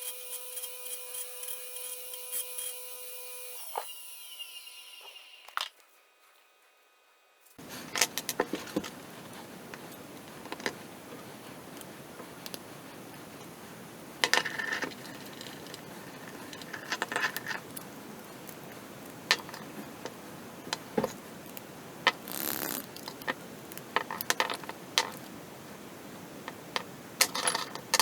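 A 3D-printed plastic balisong being handled and flipped: irregular clicks and clacks as the handles swing and knock together. It follows a steady whirring with regular ticks and a brief silence about six seconds in.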